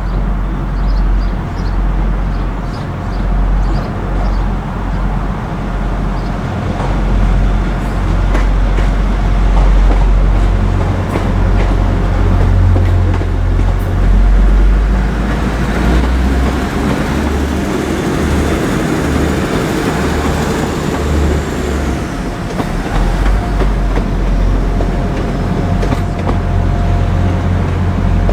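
Diesel train running through the station with a heavy, steady low rumble; the noise swells about two-thirds of the way through as it draws closest.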